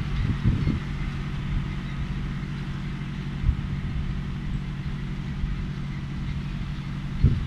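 John Deere 1030's three-cylinder diesel engine running steadily at an even speed, with a single short knock about three and a half seconds in.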